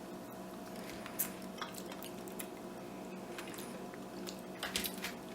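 Faint chewing of crunchy dried mealworm larvae: scattered soft crunches and clicks, a small cluster near the end, over a steady low hum.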